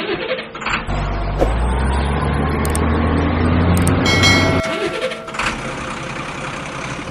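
Heavy truck engine running with a rising pitch, then a short high hiss about four seconds in, after which the engine runs on more steadily.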